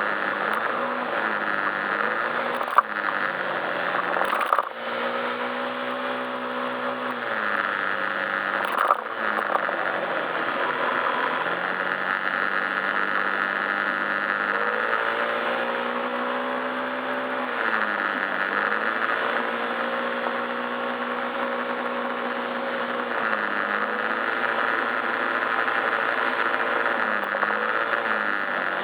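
Yamaha Majesty S scooter's single-cylinder engine running under way, its note rising and falling with the throttle several times, over a steady rushing noise. A few short sharp knocks come in the first ten seconds.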